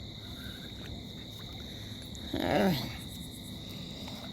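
Steady high-pitched chirring of crickets or other night insects. About two and a half seconds in, a short vocal exclamation falls in pitch.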